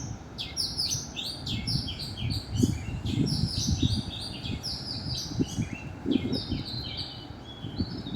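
Many small birds chirping together in a dense chorus of short, overlapping calls, each sweeping downward in pitch, with irregular low thumps and rumbling underneath.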